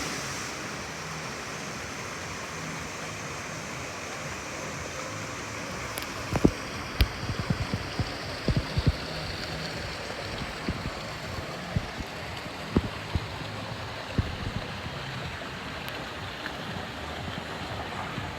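Steady rush of running water from a water-park lazy river, with scattered short low knocks from about a third of the way in.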